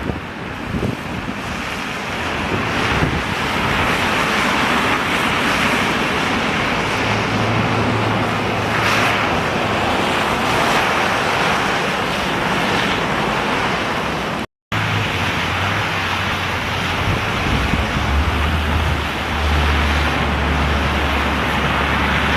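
Strong storm wind gusting and rushing across the microphone in a snowstorm, with a low steady drone joining in the middle and latter part. The sound cuts out completely for a moment about two-thirds through.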